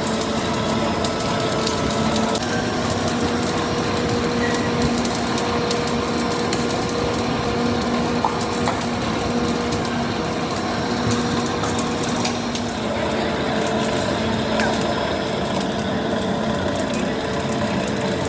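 Tyre-factory machinery running: a steady hum over even noise, with a few faint clicks.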